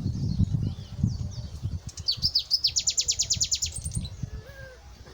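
A songbird sings a rapid trill of about a dozen sharp, high notes, starting about two seconds in and ending near four seconds. Under it are low rustles and thumps that fade away near the end.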